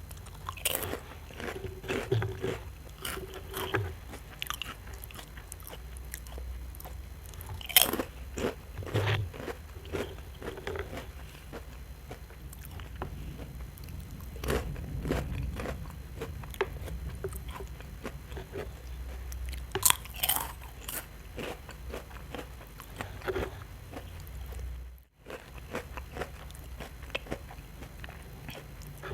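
Biting and chewing a Cornetto ice cream cone: irregular crisp crunches of the wafer cone between softer chewing, with the sharpest crunches about eight and twenty seconds in.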